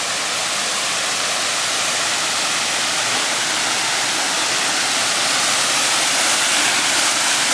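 Waterfall rushing: a steady, loud hiss of falling, splashing water that grows slightly louder.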